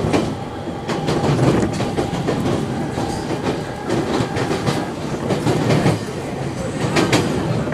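Electric passenger train running, heard from inside the carriage: a steady rumble with the wheels clacking over rail joints, a sharper clack about seven seconds in.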